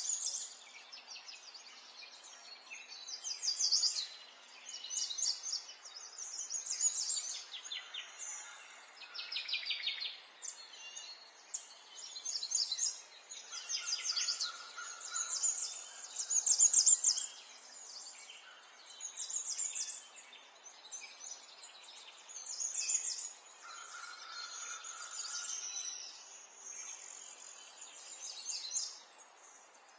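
Songbirds singing: short, high, rapidly trilled phrases repeat every second or two over a faint steady background hiss.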